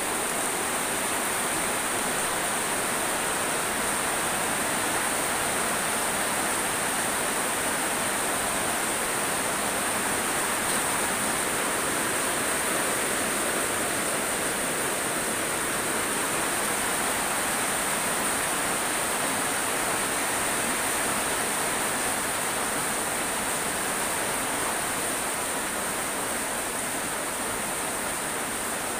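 Heavy monsoon rain pouring steadily, a dense even hiss without a break.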